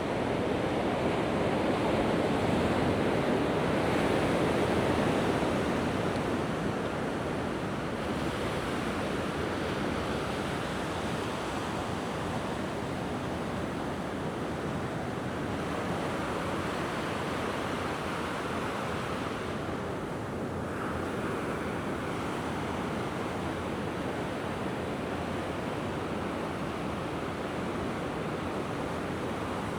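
Mediterranean waves washing onto the beach in a steady rush of surf, swelling a little louder in the first few seconds, with some wind on the microphone.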